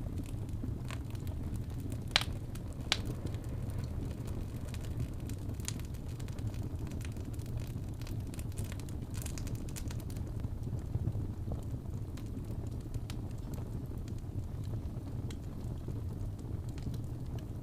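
Fire in a fireplace crackling: scattered small pops and ticks, with two sharper snaps about two and three seconds in, over a steady low rumble.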